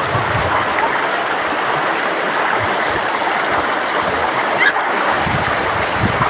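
Flowing water of a stream, rushing and gurgling steadily.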